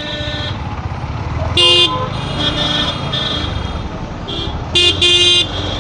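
Vehicle horns honking in traffic: two loud short blasts about three seconds apart, with fainter toots around them. Beneath them runs the steady low rumble of the motorcycle's engine and road noise.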